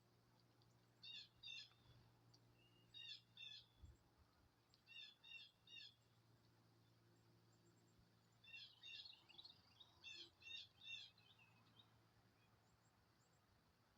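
Small bird chirping faintly: short high notes in clusters of two or three, repeated every couple of seconds, with a busier run of chirps near the end. A low steady hum runs underneath.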